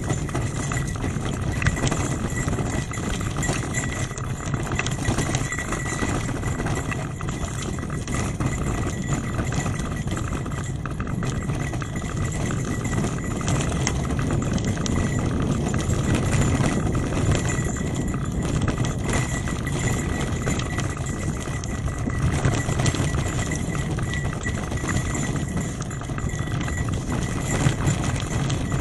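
Trek 8.3 DS hybrid bicycle rolling along a rough forest road: a steady low rumble of tyres and moving air, with frequent small rattling knocks from the bike.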